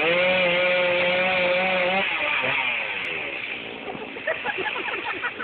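Chainsaw engine revved up and held at high speed for about two seconds, then easing off and dropping back to lower revs.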